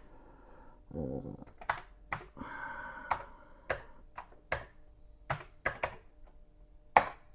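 Keys on a Commodore 64 keyboard clicking as a disk-format command is typed, about ten irregular keystrokes with a louder final press near the end.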